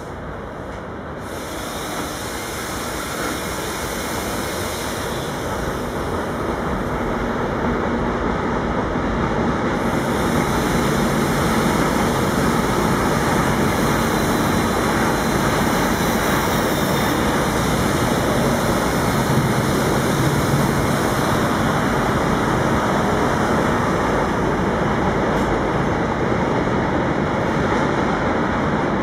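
Freight train of tank wagons rolling across a steel railway bridge: a steady rumble of wheels on rails that swells over the first several seconds as the train arrives, then holds at full strength.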